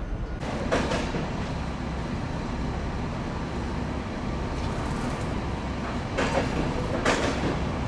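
Railway passenger coaches rolling slowly past a platform: a steady low rumble, with a few sharp clanks from the wheels about a second in and twice near the end.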